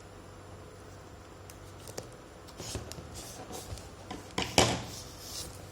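Parcel packaging being handled and pulled open: scattered rustles and small clicks, with a louder rustling scrape about four and a half seconds in.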